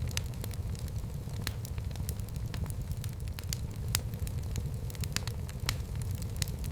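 Wood fire in a fireplace burning steadily, with a low rumble and frequent sharp crackles and pops at irregular intervals.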